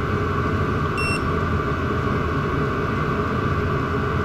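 Chinese diesel parking heater running steadily, its burner and blower making an even hum and rumble. A short electronic beep sounds about a second in.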